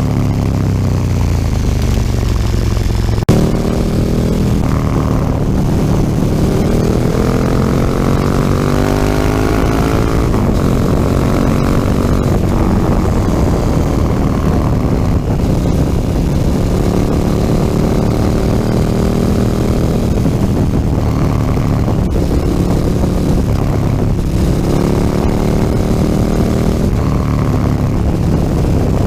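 KTM 1290 Super Duke R's V-twin engine through an Akrapovič slip-on exhaust under way. The pitch falls at first, then climbs in several long rises, each ending in a sudden drop, with a sharp click about three seconds in.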